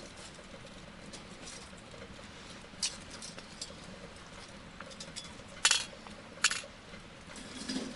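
Scattered small clicks and ticks over a faint steady hiss, with two sharp, louder knocks a little after the middle.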